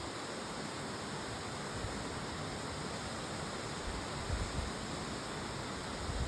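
Strong wind blowing, an even steady hiss with a few low buffets on the microphone.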